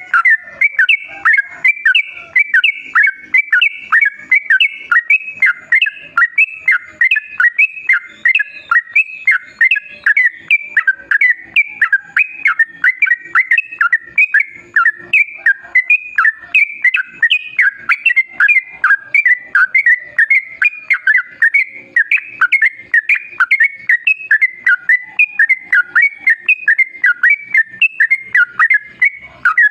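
Yellow-vented bulbul (trucukan) singing a long, unbroken run of short, rapid chirping notes.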